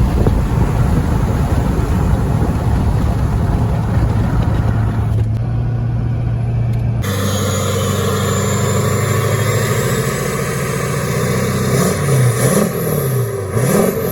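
LLY Duramax 6.6-litre V8 turbo-diesel exhaling through a 4-inch straight-pipe exhaust with a loud, steady low drone. The sound changes abruptly about halfway through. Near the end the engine revs up and back down about three times.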